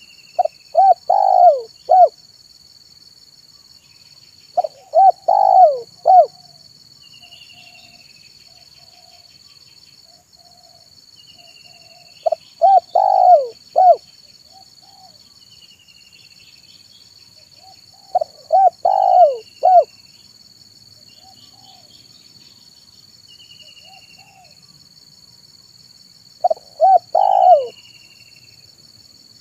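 Spotted dove (tekukur) cooing: five phrases of several short coos each, one every six to eight seconds. Faint high chirps of another small bird fall between the phrases.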